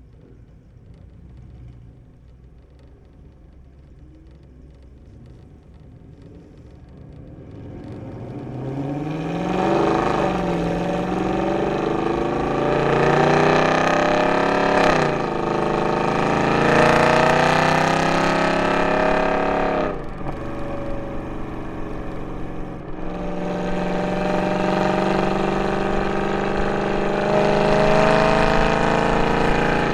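Mercedes C63 AMG's M156 6.2-litre V8, on long-tube headers, an x-pipe and no catalytic converters, under hard acceleration. After a quieter low rumble it gets loud, climbing in pitch and dropping sharply at each upshift, a few times over. Near the end it holds a high note that keeps climbing.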